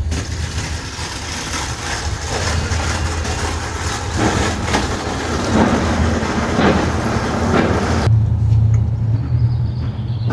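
Heavy road traffic passing close by: a steady low engine rumble with road noise, and the road noise drops away abruptly about eight seconds in.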